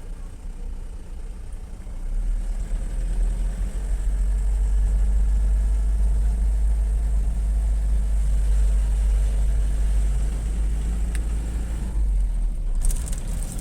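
A road vehicle on the move: a steady low rumble that grows louder about two seconds in, with a brief high hiss near the end.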